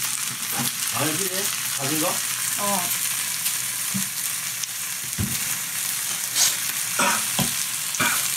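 Sundae, peppers and onion sizzling in a frying pan with a steady hiss, with a few sharp knocks and clinks of utensils against the pan.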